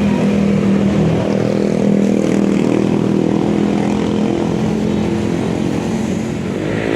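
An engine running at a steady speed: a low, even drone that holds its pitch.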